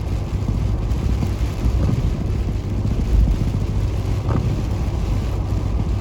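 Steady low rumble of a car's engine and tyres, heard from inside the cabin while driving at about 35 mph on the interstate.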